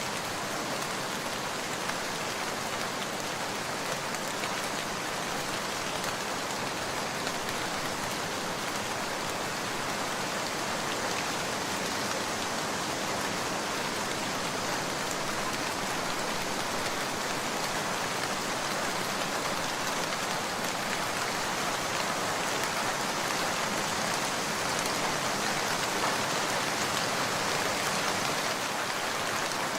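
Steady rain falling, an even hiss full of small drop ticks, growing slightly louder near the end.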